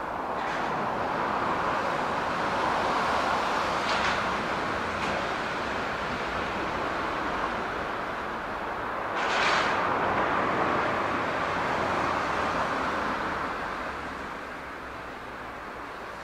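Shunting locomotive slowly moving a rake of 115 series electric train cars along a yard track, giving a steady rolling noise. A short hiss comes about nine seconds in.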